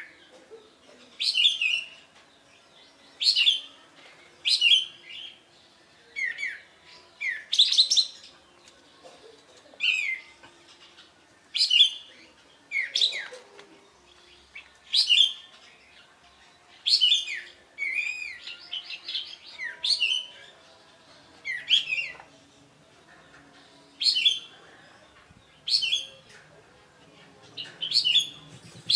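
Sooty-headed bulbul singing short, loud chirping phrases, one every second or two, many ending in a falling note.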